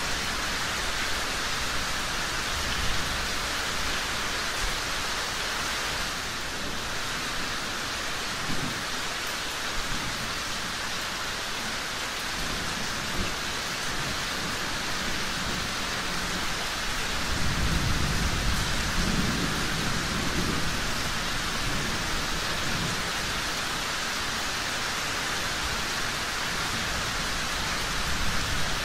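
Steady rain falling, with low rumbles of distant thunder rolling under it, the strongest rumble swelling up a little past the middle.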